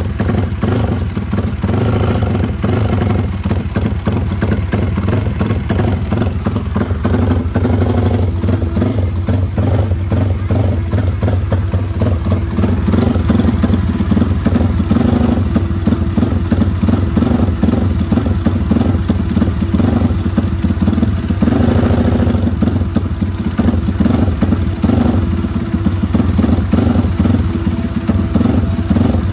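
Race-built Yamaha Vixion single-cylinder four-stroke motorcycle engine running steadily and loudly, with no pauses.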